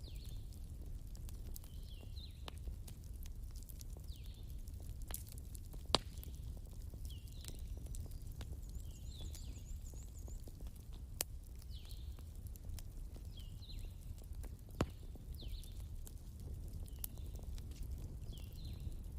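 Wood fire crackling over a low steady rumble, with a few sharp pops, the loudest about six, eleven and fifteen seconds in. A short high chirping call from a small animal repeats about every second and a half.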